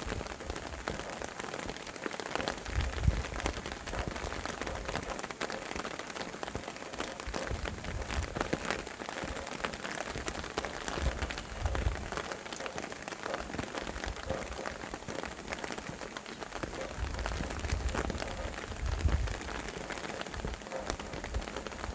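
Steady rain with a dense patter of individual drops. Low gusts of wind rumble in a few times.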